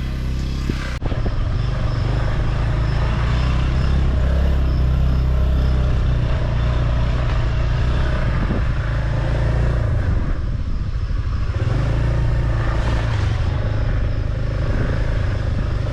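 Motorbike engine running while being ridden, its pitch shifting a few times as the throttle changes, over a steady rush of wind noise.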